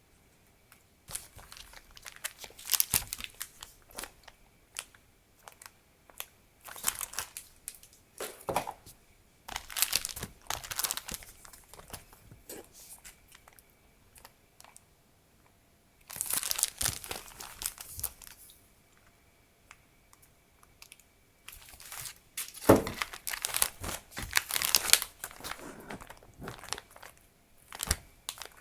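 Plastic and paper stationery packaging crinkling and rustling as it is handled and unwrapped. It comes in several separate bursts with short quiet pauses between them, as items are opened one after another.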